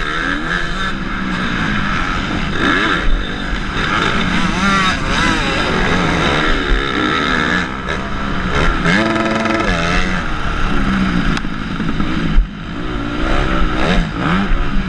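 Motocross bike engine heard on board, revving up and dropping back again and again as the rider accelerates and shifts around the track. There is a sharp knock about three seconds in and another near the end.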